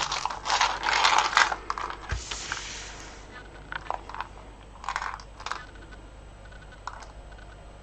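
Loose beads being handled and sorted by hand: a busy clatter of small hard clicks and rattles, a short rustle about two seconds in, then a few scattered single clicks.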